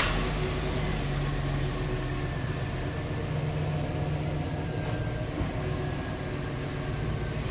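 The 6.0-litre V8 of a Chevrolet/GMC 2500HD pickup idling steadily just after being started, running briefly after an oil change to fill the new oil filter.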